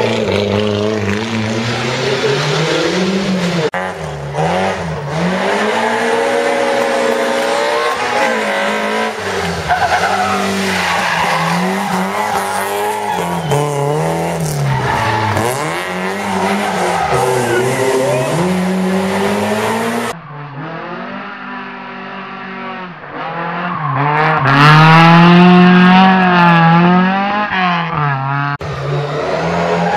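Historic rally cars on a special stage, engines revving up and down hard through corners and gear changes, with tyre squeal. About 20 s in the sound cuts and another rally car follows, its engine loudest and warbling rapidly in pitch about 25 s in.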